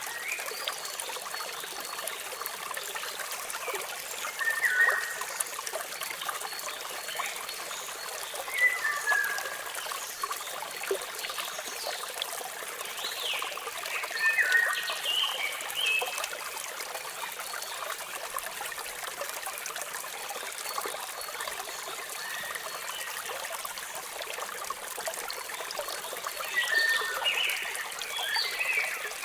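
Steady rush of a small waterfall, carrying little deep rumble, with songbirds chirping over it in short, falling calls every few seconds, busiest near the end.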